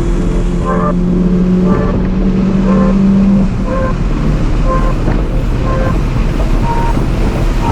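Car engine running hard under load, its pitch climbing slowly, then dropping sharply about three and a half seconds in, as at a lift or gear change. Short higher chirps repeat about once a second throughout.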